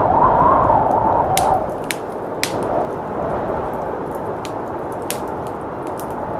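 Wood fire crackling with scattered sharp pops over a steady blizzard wind. The wind's howl swells in the first second and a half, then eases.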